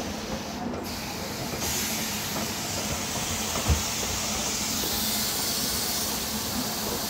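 Moving Indian Railways passenger coaches making a steady rumble and hiss of wheels on rail. The hiss grows brighter about a second and a half in, and there is a single knock a little before halfway.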